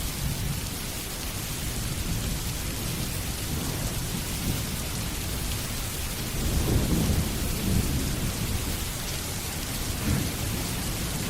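Steady rain hissing, with a low rumble of thunder that swells to its loudest about halfway through and rolls on, flaring again briefly near the end.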